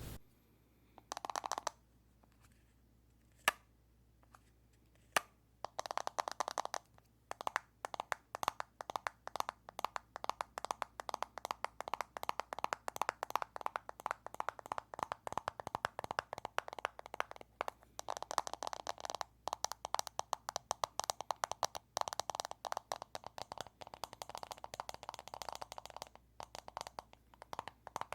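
Fingers tapping on an earphone case: a few single taps at first, then from about six seconds in a fast, continuous run of sharp clicking taps.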